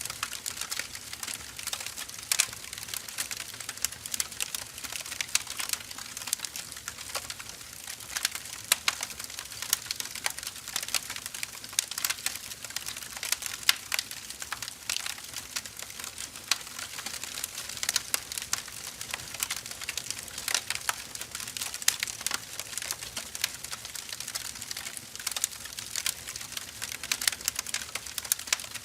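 Burning firewood crackling and popping steadily, with a dense run of irregular sharp snaps over a soft hiss.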